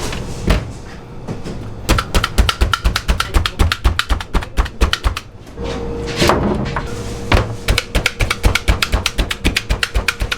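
Rapid knife chopping on a cutting board, about eight strokes a second, in two runs with a short break in the middle.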